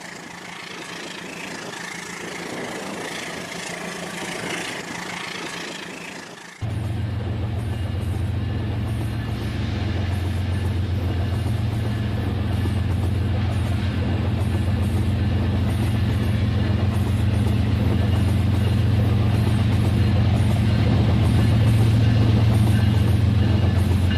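Model train running, a steady low mechanical hum with a rumble that cuts in abruptly about six and a half seconds in, after a stretch of plain noisy hiss.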